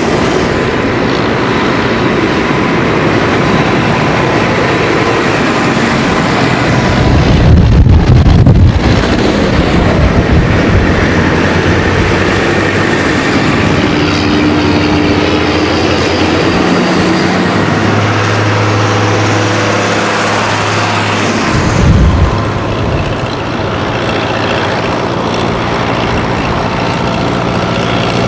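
Tractor diesel engines running as tractors in a road convoy drive by, one passing loudest about eight seconds in and another brief loud moment about twenty-two seconds in.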